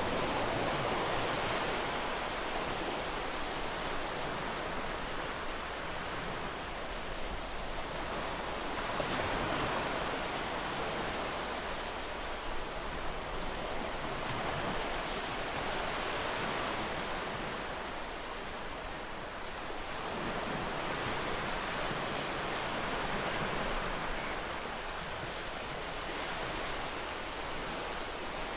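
Ocean surf breaking and washing on a shore: a continuous hiss that swells and eases every several seconds as waves come in.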